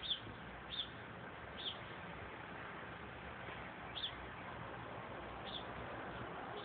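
A garden bird chirping: about five short, high chirps at uneven gaps over a faint, steady hiss.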